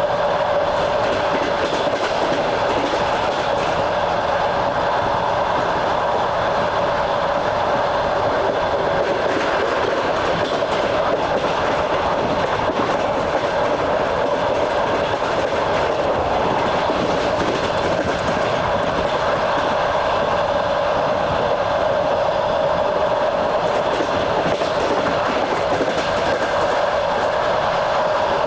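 Wheels of a moving train clattering over rail joints, heard from aboard, over a steady running rumble with a constant hum-like tone.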